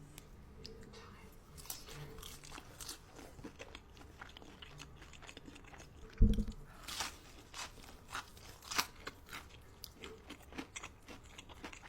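Crunchy food being bitten and chewed close to the microphone, a steady run of crisp crackles and crunches. About halfway through there is a single loud, dull low thump.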